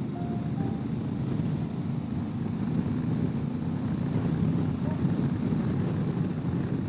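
A steady low rumble, like a vehicle running.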